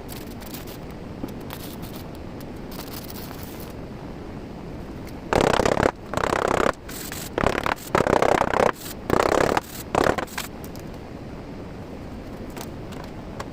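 Several loud, rough bursts of power-tool work on steel plate around a tractor rim, each lasting about half a second to a second, coming in a run about five seconds in after a stretch of steady low background noise.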